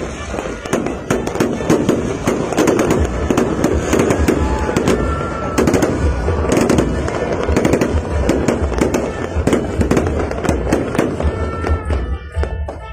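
Fireworks going off in a dense, continuous barrage of bangs and crackles over a deep rumble, with a few short whistles.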